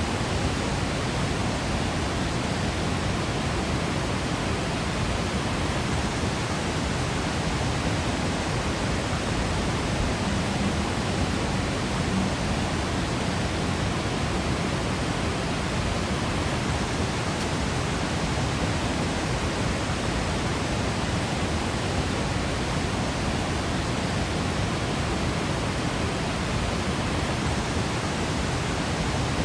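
Steady, dense rush of a waterfall, even and unbroken, with the most weight in the low end.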